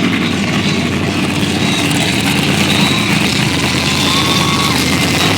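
Monster truck engines running together in a steady, loud rumble.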